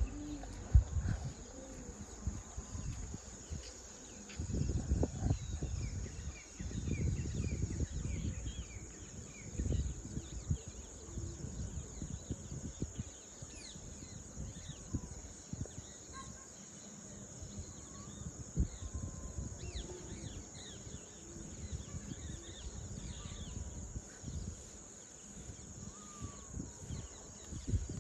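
Steady high-pitched drone of insects such as crickets, with many short chirps of birds calling over it. Uneven bursts of low rumble come and go, loudest around 4 to 10 seconds in.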